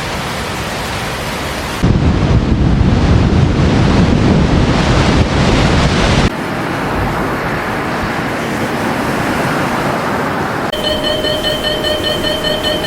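Edited-together storm and flood noise: a steady rush of rain, wind and floodwater. About two seconds in a louder, deeper rush cuts in and breaks off abruptly about six seconds in. Near the end a steady pitched tone with overtones comes in over the noise.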